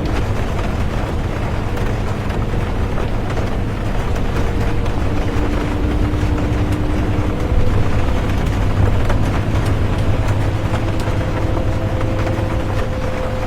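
Bus interior while driving in rain: steady low engine and road rumble with faint whining tones that come and go, and light ticking of raindrops over it.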